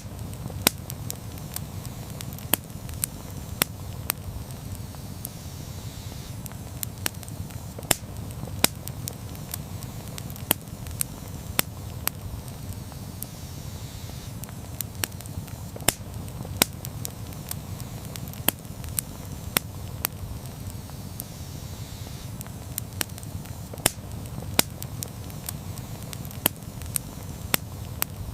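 Wood campfire burning with a steady low rumble and irregular sharp crackles and pops, about one or two a second.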